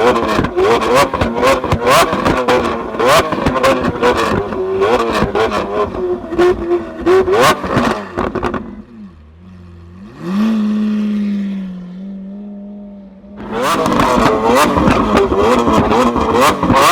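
Lamborghini Aventador's V12 through a Capristo exhaust, blipped repeatedly with a rapid crackle of exhaust pops. About nine seconds in it drops away briefly, rises and holds a steady rev for a few seconds, then the popping revs start again.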